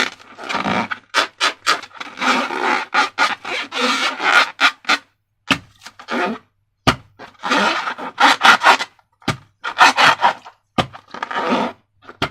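Hands working slime and rubber balloons: a busy run of short rubbing, crackling, scraping strokes, some in quick clusters and some drawn out, with a few brief pauses along the way.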